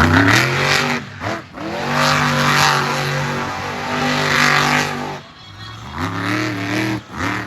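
Monster truck engine revving hard, held at high revs for a few seconds at a time, dropping off briefly about a second in and again after about five seconds, then rising again near the end.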